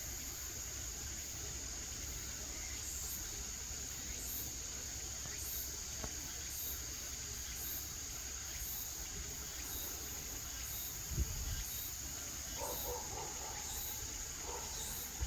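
Insects calling outdoors: a steady high-pitched trill, joined from about three seconds in by a high chirp repeating about twice a second. A brief low thump comes near the end.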